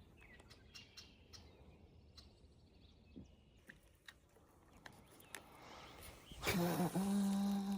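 Quiet open-air river ambience with faint bird chirps and small ticks. About six and a half seconds in, a sudden loud noisy burst, then a man's long drawn-out shout.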